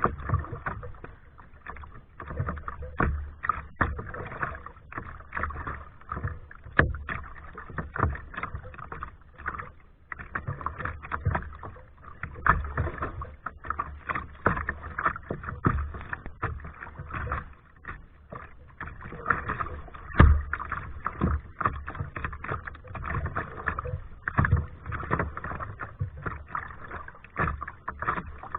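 Kayak paddle strokes: the blades dip and splash in the water in a steady rhythm, with a few sharper knocks among them.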